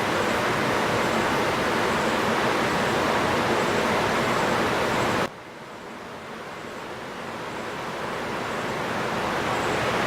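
Steady rushing noise, of the kind made by flowing water or wind. About halfway through it drops suddenly to a much lower level, then swells slowly back up.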